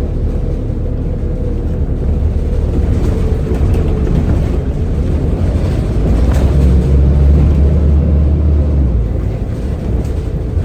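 Scania N230UD bus engine running under way through a ZF automatic gearbox, a steady low rumble. It grows louder a little past the middle, then eases back near the end.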